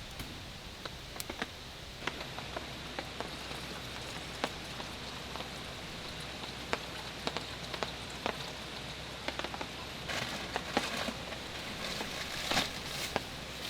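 Light rain with scattered raindrops ticking sharply on a surface, one by one, over a steady soft hiss. A few louder, noisier rustles come about ten and twelve seconds in.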